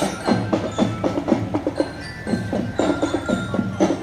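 Marching drum band playing: quick, rhythmic drum strokes with bell-lyra (glockenspiel) notes ringing over them.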